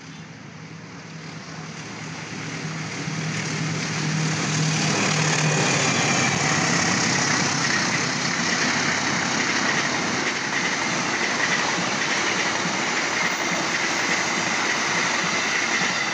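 A diesel-hauled passenger train passing close by. The locomotive's low engine hum builds over the first few seconds, then gives way to a steady, loud rush of coaches rolling over the rails, with a thin high whine in the second half.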